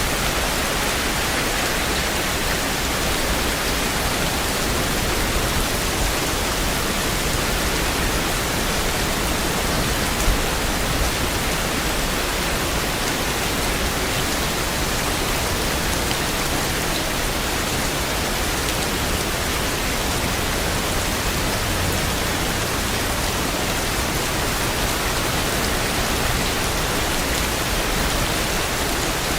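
Steady heavy rain, a dense even hiss with no letting up, and one brief louder click about ten seconds in.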